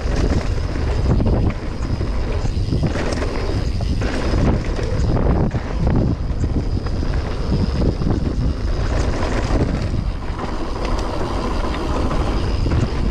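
A mountain bike descending a downhill trail at speed. Heavy wind buffets the camera microphone over the rumble of tyres on dirt and rock, with short knocks and rattles from the bike throughout.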